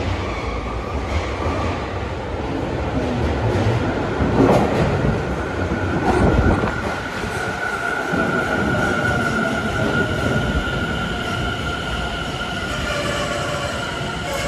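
Tobu 50050-series electric train pulling into an underground station: a heavy rumble of wheels on rail that swells twice, then a steady high whine as it slows toward a stop.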